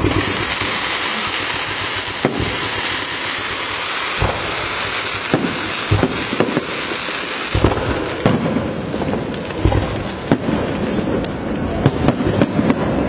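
Firecrackers crackling in a dense, continuous rattle, with louder single bangs breaking through every second or two.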